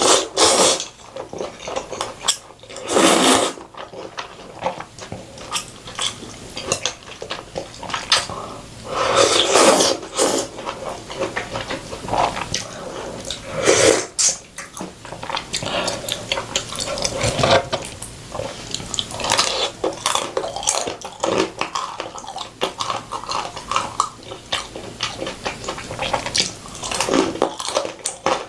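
Close-up eating sounds: wet chewing and several loud slurps of noodles and soup, with quick crunchy clicks and clinks of cutlery against dishes.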